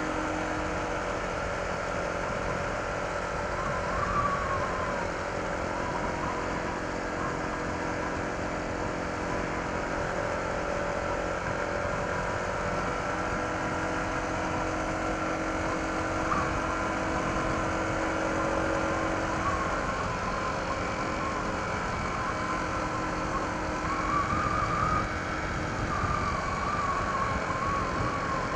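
Honda ADV 160 scooter's single-cylinder engine on its stock exhaust, running steadily at cruising speed, with wind and road noise. A thin wavering whistle comes and goes in the second half.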